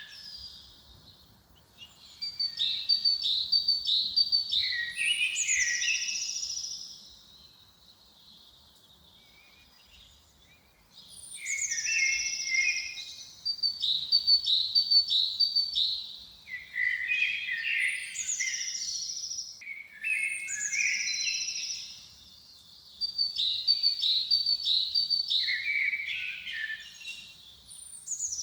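A songbird singing repeated phrases, each a few seconds long: a high whistle, a quick run of repeated notes and falling slurred notes. There are pauses between phrases, the longest about a third of the way in.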